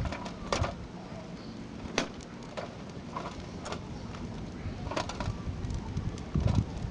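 Wood fire crackling, with scattered sharp pops roughly once a second and a duller thump near the end.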